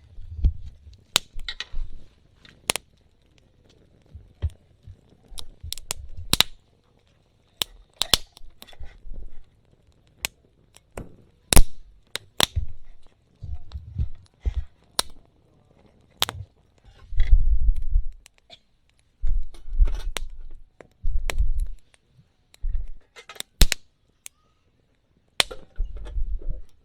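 Small pieces of wood snapping and crackling around a mini fire pit: irregular sharp snaps, one or two a second, with low thumps in between.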